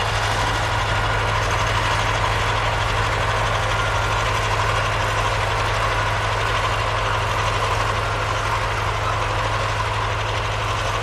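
Heavy vehicle engine running steadily with a deep, even hum.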